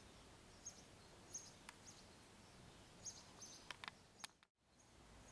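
Quiet outdoor background hiss with a scattering of short, high bird chirps and a few faint clicks; the sound drops out completely for a moment near the end.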